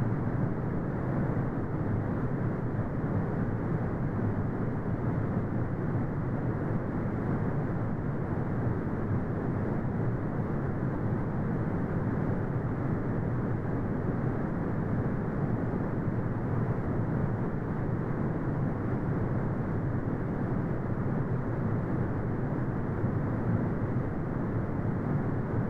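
Continuous brown noise: a steady, deep rumbling hiss with no changes, its energy mostly in the low end and nothing above the treble.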